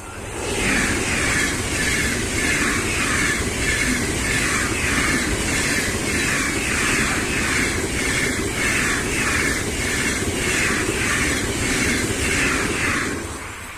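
A train passing close at speed: a steady rushing noise with a rhythmic beat about one and a half times a second, fading away near the end.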